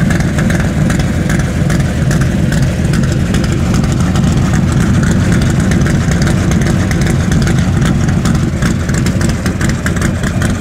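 Ford 428 FE V8 idling steadily through stainless side pipes, a loud, even exhaust rumble. The owner says a spark plug is a little fouled.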